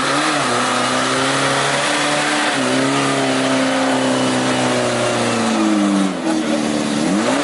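Off-road jeep's engine revving hard under load, its pitch holding high, dropping about five and a half seconds in and climbing again near the end, over a steady rushing noise.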